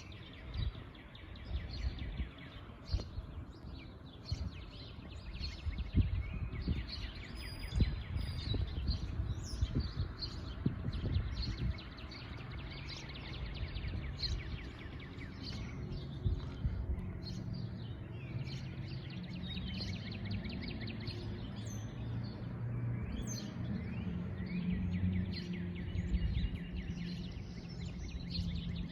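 Small songbirds chirping and twittering in quick short calls and trills, over a steady low background rumble.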